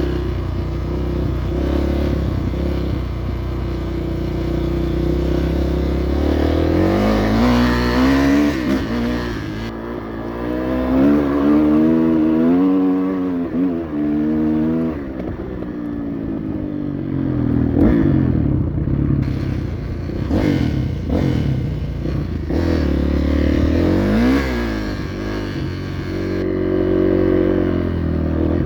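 Kawasaki motorcycle engine running under way, its pitch rising and falling again and again as the throttle is opened and closed.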